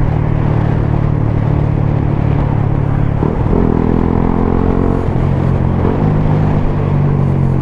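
Suzuki GSX-S 125's single-cylinder engine through a Mivv GP Pro exhaust, running steadily under way. The engine note changes briefly about three seconds in, then settles again.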